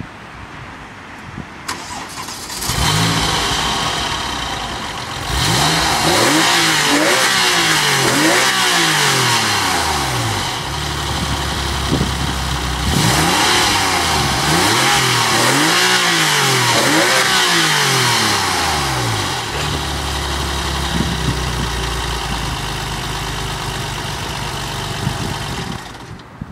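Porsche 996 GT3's flat-six engine starting up a little over two seconds in and idling, then revved in two long series of quick throttle blips, the pitch climbing and falling with each, before it settles back to idle.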